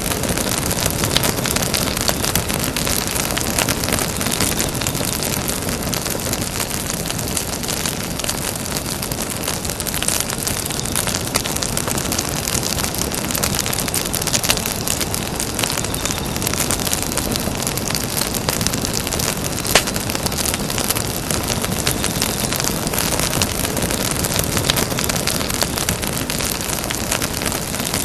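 Campfire burning: a steady hiss packed with small crackles and pops, with one sharper pop a little over two-thirds of the way through.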